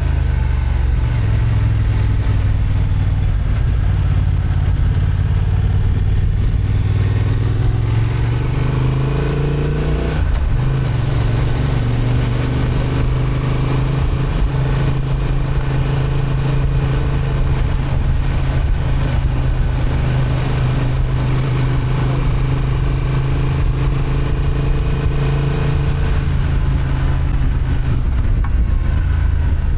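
Honda XL750 Transalp's 755 cc parallel-twin engine, restricted to 35 kW, pulling a motorcycle uphill. The revs rise for a few seconds, then drop with a gear change about ten seconds in. After that it runs at a fairly steady pitch, easing near the end.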